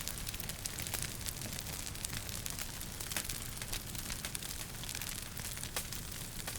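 Wood fire burning in a fireplace, crackling with many small quick pops and snaps over a steady low rumble.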